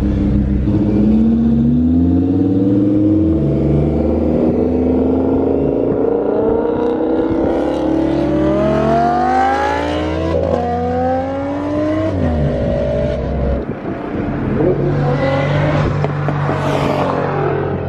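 Car engine accelerating hard, its pitch climbing for several seconds, then dropping sharply at gear changes about ten and twelve seconds in before pulling again.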